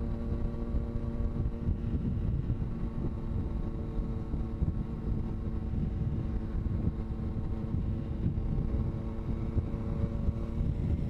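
Motorcycle engine running at a steady, unchanging pitch, with wind rumbling on the microphone.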